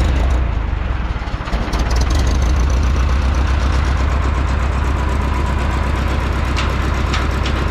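Large engine running steadily with a heavy low rumble. It dips briefly about a second and a half in, then picks back up, with a few sharp clicks near the end.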